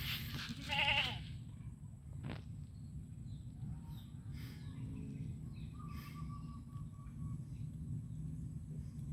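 A goat bleats once, briefly, with a quavering voice about a second in, over a steady low rumble.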